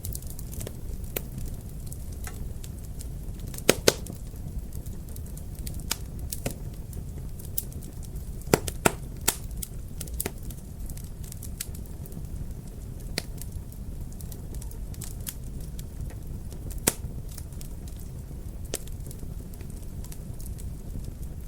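Wood fire crackling in a fireplace: irregular sharp pops and snaps over a steady low rumble. The loudest pops come as a pair about four seconds in and a few more around nine seconds.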